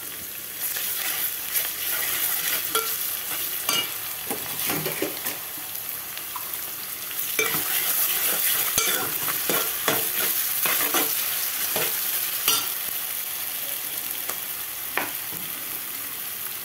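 Sliced onions, green chillies and ginger-garlic paste sizzling in hot oil in a metal pot, with a steel spoon stirring and scraping against the pot now and then.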